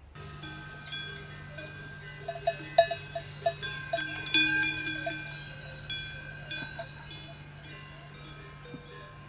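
Metal bells ringing and clanking, with a quick run of clanks through the middle, over a steady low hum.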